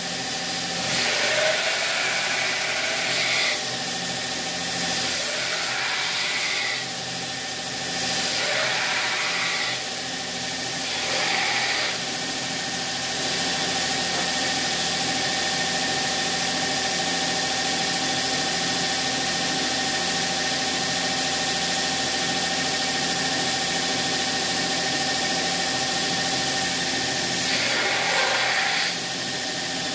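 A workshop machine running steadily with a constant hum and hiss, growing louder and brighter in short stretches of one to two seconds, about five times.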